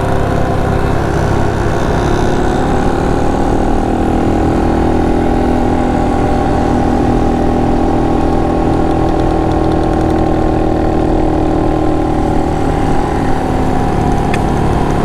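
Honda Monkey 125's single-cylinder four-stroke engine running at a steady cruising speed, heard from on board the motorcycle. Its pitch eases down slightly in the first couple of seconds, then holds level.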